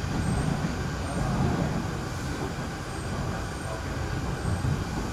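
Hyundai Rotem R-Train electric multiple unit running at speed, heard inside the carriage: a steady low rumble of wheels and running gear on the track.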